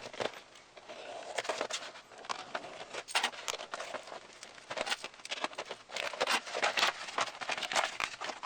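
Cardboard and plastic packaging of a Beyblade Burst starter set rustling and crinkling as it is opened and unpacked, with irregular crackles and small clicks.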